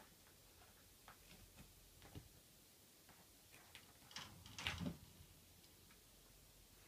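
Faint scattered ticks and taps, with a louder cluster of knocks about four to five seconds in.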